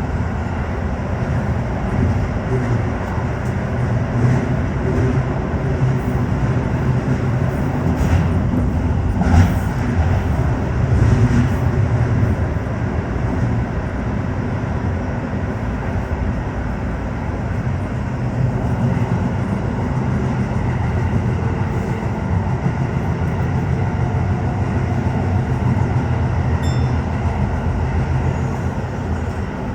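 Tokyo Metro 15000 series electric train running at speed through a tunnel, heard from inside the front car: a steady low rumble of wheels on rail. A few louder rail knocks come about eight to eleven seconds in.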